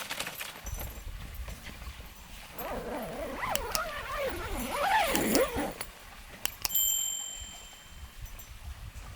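A dog vocalizing, a wavering cry that bends up and down in pitch for about three seconds, followed a little later by two sharp clicks and a short high ringing tone.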